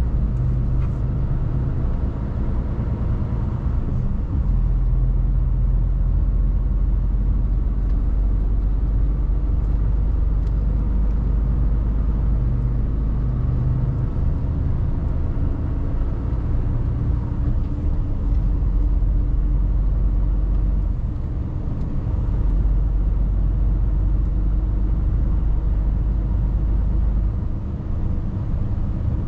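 Mercedes Actros truck's diesel engine running while driving, a steady low drone heard from inside the cab. It eases off briefly twice, about two-thirds of the way through and near the end.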